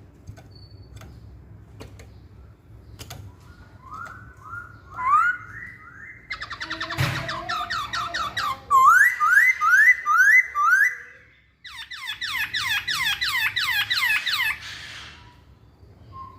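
Black-throated laughingthrush (Hong Kong poksay) singing: after a few quiet seconds, a run of rising whistled notes, then fast repeated sweeping notes in loud bursts, a short break, and another fast run that fades out near the end.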